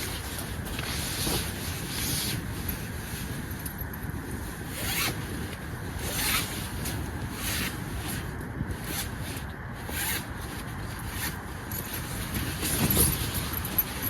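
Sleeping bag being unzipped and opened out: several short zip pulls and rustling nylon, over a steady low rush of wind.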